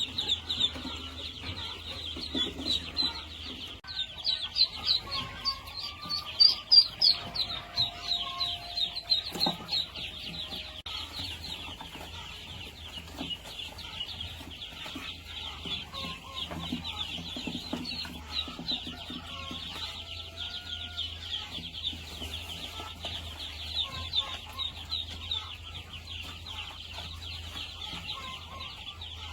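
Chickens clucking and calling over a continuous dense high chirping, with the loudest calls in the first third.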